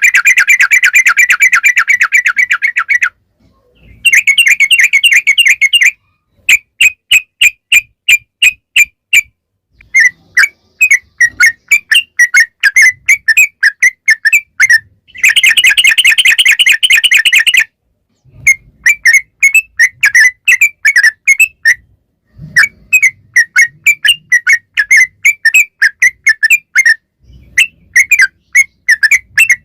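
Yellow-vented bulbul (trucukan) singing loudly. The song alternates two long, fast rolling trills, one at the start and one midway, each a few seconds long, with runs of short separate whistled notes at about three to four a second, broken by brief pauses.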